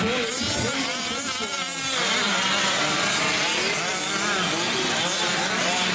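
Several 5th-scale RC trucks' small two-stroke gas engines buzzing and revving at once, their pitches rising and falling as the trucks race.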